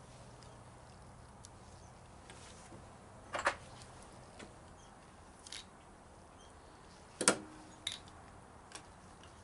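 Small metal parts and hand tools clinking and clicking as a lawn tractor carburetor is worked on by hand: two louder clinks, about three and a half and seven seconds in, with several lighter clicks between.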